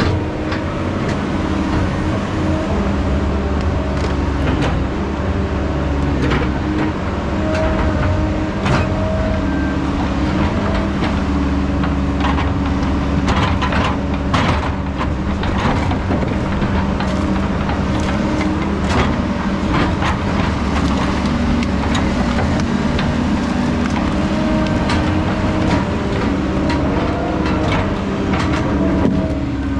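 Heavy diesel logging equipment running steadily under a constant engine note, with scattered metallic knocks and clanks, several in a row about halfway through.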